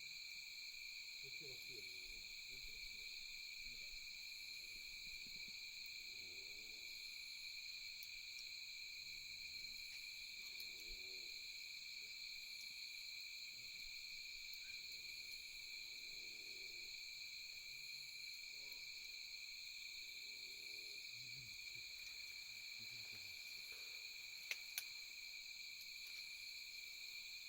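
A steady chorus of night insects, crickets trilling in several high, unbroken pitches. Under it comes a faint low call repeating every two seconds or so, and two sharp clicks near the end.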